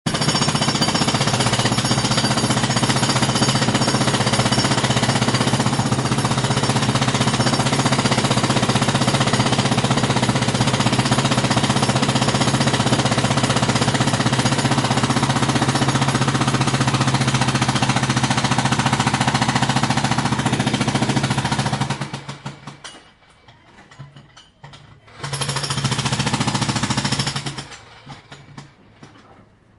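Jackhammer hammering rapidly and steadily, stopping about 22 seconds in, then a short second burst of about two seconds a little later.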